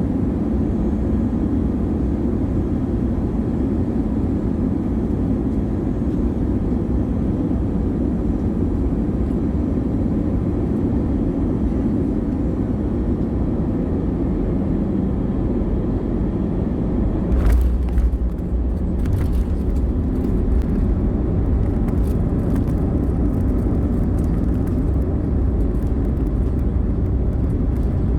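Airliner cabin noise during landing: a steady rush of engines and airflow. About two-thirds of the way through comes a sharp thump as the main wheels touch down. After it the low rumble grows heavier, with rattling through the cabin as the jet rolls along the runway.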